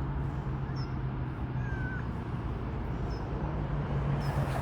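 A cat meows once, faint and brief, about two seconds in, over a steady low hum of background noise.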